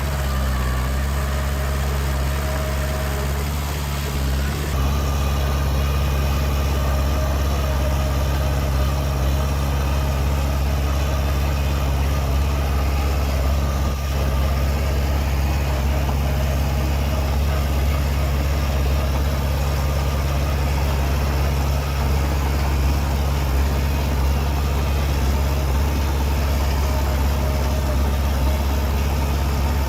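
Heavy diesel engine of earthmoving machinery running steadily with a deep, even drone; it grows slightly louder about five seconds in.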